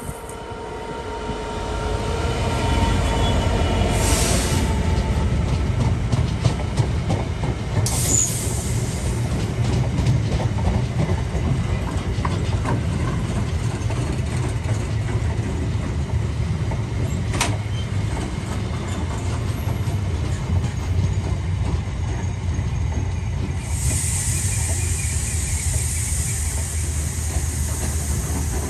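A train passing close by: its rumble builds over the first three seconds, then stays loud and steady, with sharp clicks scattered through it.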